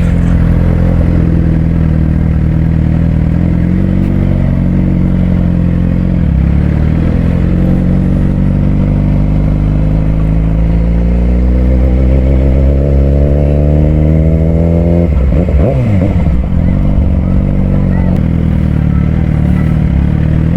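Suzuki GSX-R600 sportbike's inline-four engine running under way, its pitch first steady, then climbing for several seconds as it accelerates, then dropping sharply about fifteen seconds in before settling lower.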